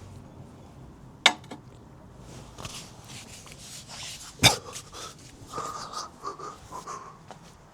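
A person breathing heavily while working on the ground, with two sharp clicks, the louder one about four and a half seconds in.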